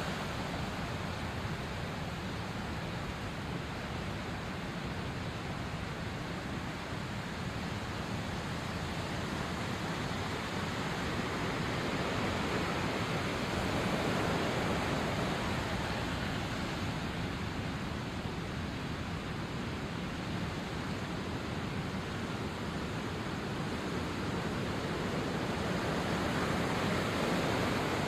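Sea waves washing onto the shore: a continuous rush that swells and eases, louder about halfway through and again near the end.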